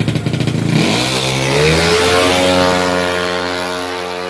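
A 200 cc automatic-scooter drag bike launching off the start line. About a second in, the engine note climbs sharply, then holds a steady high pitch and fades as the bike pulls away down the strip.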